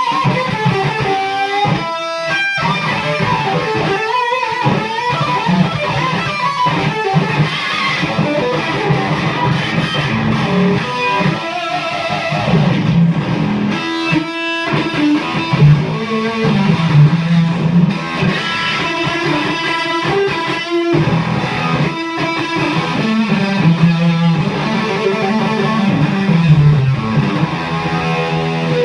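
Gibson SG Standard electric guitar on its neck pickup, played through an Octavia-style octave fuzz pedal into a Laney AOR 30 valve combo: continuous fuzzy lead playing with the octave effect. The notes change throughout, with a few short breaks between phrases.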